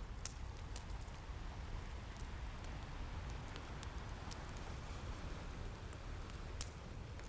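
Fireplace crackling with scattered sharp pops, two louder ones about a third of a second in and near the end, over a steady low wash of ocean waves.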